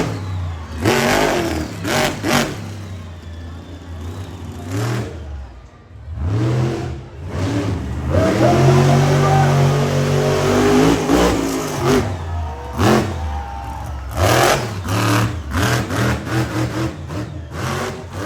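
Monster truck's supercharged V8 engine revving hard. It drops off about six seconds in, then climbs back and holds at high revs, with sharp bangs scattered through.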